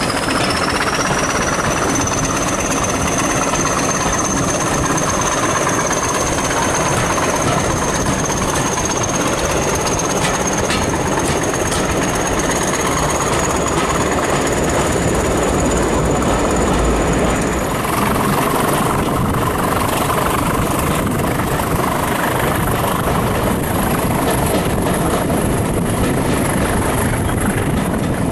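Passenger train running along the track, heard from an open carriage window: a steady rumble of wheels and coaches, with a high, thin wheel squeal on the curve that rises slightly in pitch and stops about two thirds of the way through.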